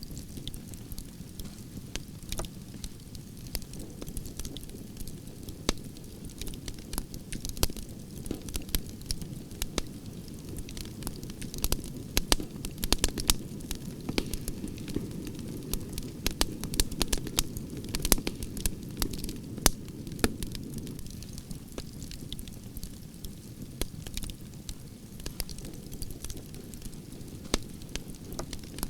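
Campfire of burning branches crackling, with constant sharp pops over a steady low roar of flames. The pops come thickest around the middle.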